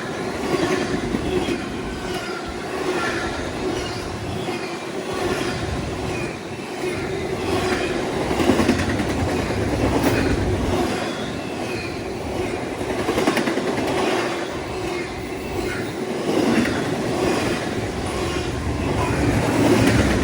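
Railroad cars rolling past on the track, their wheels clicking steadily over the rail joints along with the continuous rumble of steel wheels on rail.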